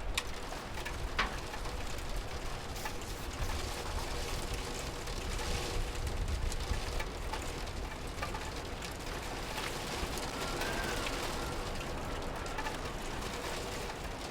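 Steady rain falling, with scattered louder drops ticking through it.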